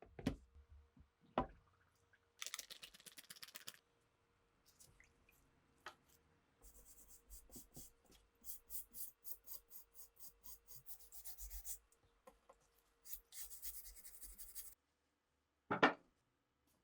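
Rifle parts being sanded or scrubbed by hand: several runs of quick back-and-forth rubbing strokes, with short sharp knocks near the start and near the end.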